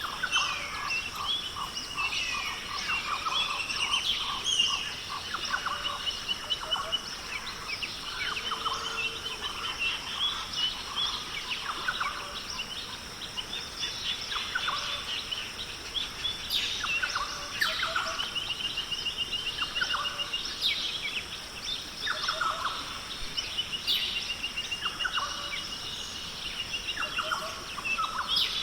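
Several birds calling and chirping over one another, with repeated rattling trills, over a steady high-pitched hiss.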